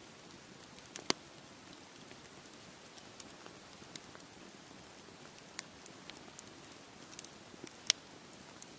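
Campfire crackling with scattered sharp pops, the loudest about a second in and near the end, over a steady soft wash of sea waves.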